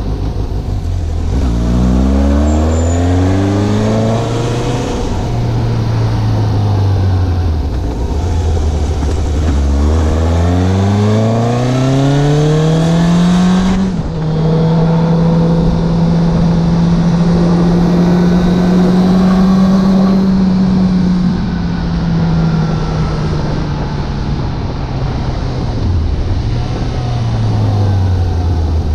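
Suzuki GSX750 inline-four motorcycle engine under way. The revs climb twice as it accelerates, then hold a steady cruise, fall away as the bike slows, and pick up again near the end.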